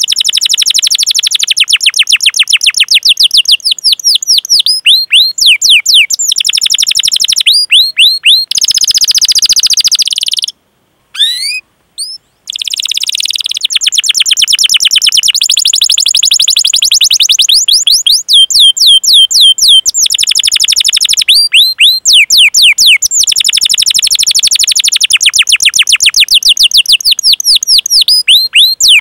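Domestic canary singing a long, loud song of fast repeated 'cuit cuit' chirps and rolling trills, each note sweeping downward in pitch. There is a short pause about ten seconds in before the song starts again.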